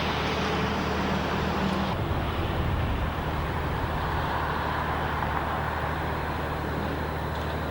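Steady vehicle and traffic-like noise with a low hum underneath.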